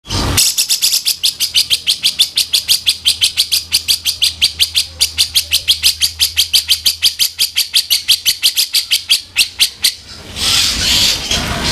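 A songbird gives a rapid, harsh rattling chatter of about six sharp notes a second, held for close to ten seconds. About ten seconds in it switches to a noisier, rasping call. This is the rough 'kasaran' kind of call used to tutor cage birds.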